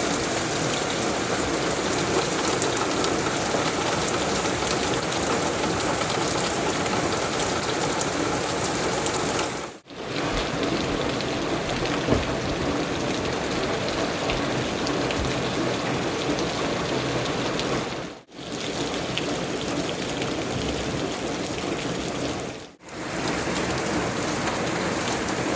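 Steady rain, an even hiss, that drops out briefly three times.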